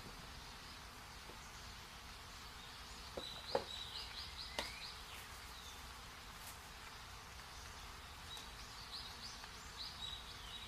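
Faint bird chirping in the background: two quick runs of short, high chirps, one a few seconds in and one near the end. A few soft knocks from the shoe and box being handled, the loudest about three and a half seconds in.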